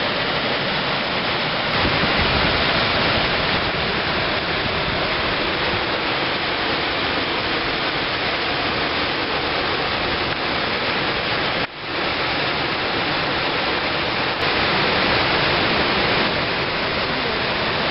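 Steady, loud rushing of the Chachín waterfall, a river dropping more than 30 m, with a brief dip in level about two-thirds of the way through.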